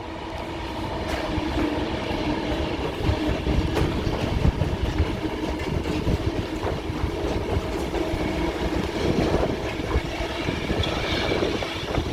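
A train passing close by along the track, a loud steady rumble of wheels on rail that builds over the first couple of seconds and then holds.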